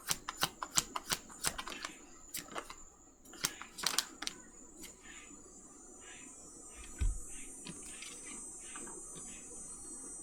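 Tarot cards being shuffled by hand: a quick run of sharp card clicks, then sparser clicks and softer rustling as the deck is handled, with a single low thump about seven seconds in.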